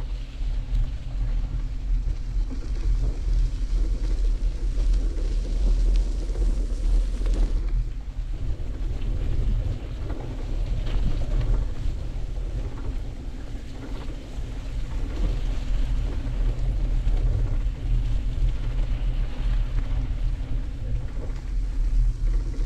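Wind buffeting the microphone of a bicycle on the move: a loud, steady low rumble with a hiss over it.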